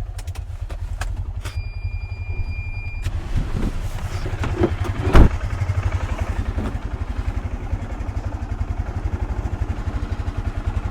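Van engine idling with a steady low pulse, left running to keep the cab warm. A steady high electronic tone sounds for about a second and a half near the start and cuts off suddenly, and a loud thump comes about five seconds in.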